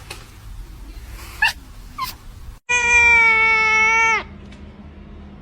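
A domestic cat giving one long, loud, steady meow of about a second and a half, starting about halfway through. It is preceded by a few faint clicks.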